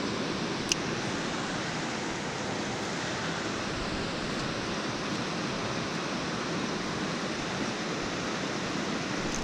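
Moving creek water rushing steadily, an even hiss, with one small click just under a second in.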